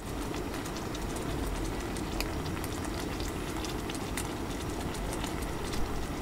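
Cheese dakgalbi sizzling in a cast-iron pan on a gas camp stove: a steady hiss with many small pops and crackles as the cheese melts and bubbles.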